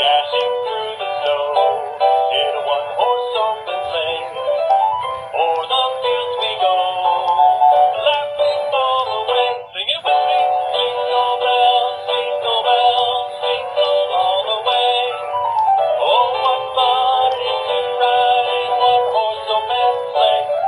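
Hallmark Sing-Along Showman Snowman plush playing a sung Christmas song through its small built-in speaker, thin and tinny with no bass. There is a brief break about ten seconds in.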